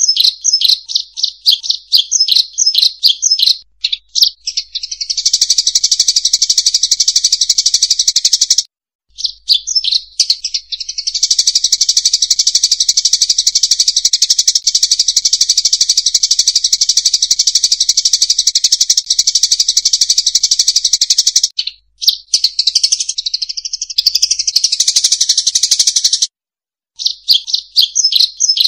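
Lure recording of rice-field munias (emprit sawah) chirping in rapid, high twittering runs. The runs come in long dense stretches that cut off abruptly to silence about nine seconds in and again shortly before the end.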